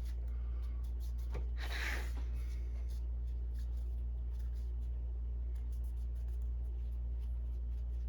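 Steady low hum under faint handling noise: light rubbing and small clicks of hands wiping and handling an inkjet cartridge, with a brief louder rustle about two seconds in.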